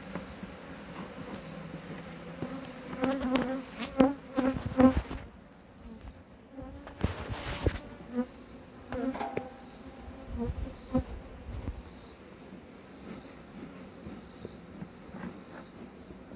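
Honey bees buzzing steadily around an open hive, with several sharp knocks and clatters from handling the hive about three to five seconds in.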